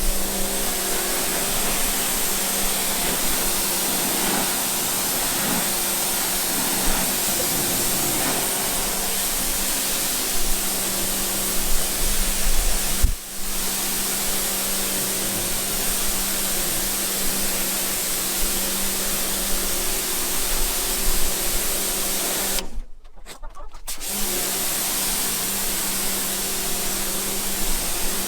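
Pressure washer running with a steady motor hum under the hiss of its water spray. The spray cuts off briefly about halfway through and again for about a second later on.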